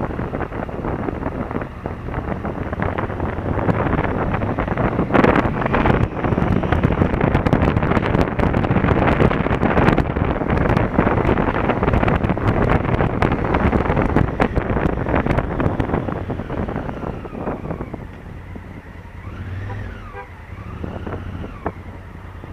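Wind rushing over the camera microphone along with the running noise of a Honda Africa Twin CRF1000L on the move. It grows louder a few seconds in, then eases off near the end, where a few brief rising-and-falling tones come through.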